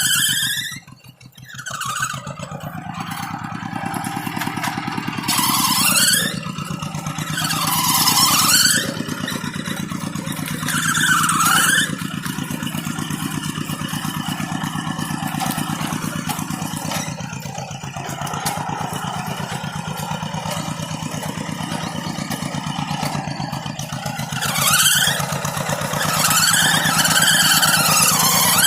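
Tractor engine running steadily with a fast, even beat, briefly dropping away about a second in. High squeals that dip and rise in pitch come over it several times.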